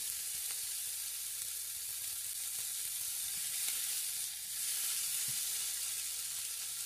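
Sliced onion, garlic and tomato sizzling steadily in hot oil in a nonstick wok while being stirred with a spatula.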